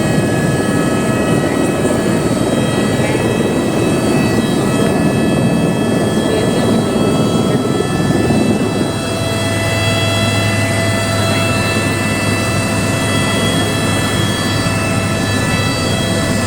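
Helicopter running steadily, engine and rotor noise with a constant high whine. The low rumble eases about nine seconds in, leaving a steady low hum.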